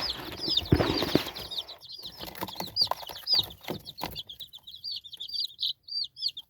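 A brood of young chicks peeping over and over with high, arched peeps. Rustling and a few knocks are heard in the first couple of seconds.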